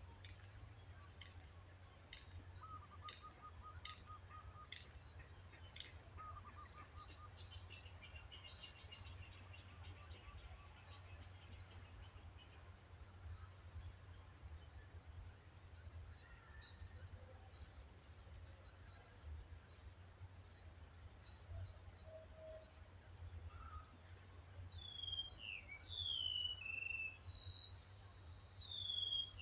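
Several wild birds singing and calling over one another, with many short high chirps throughout and a brief trill. Near the end a louder bird joins with a run of downward-slurred whistled notes. A faint steady low hum runs underneath.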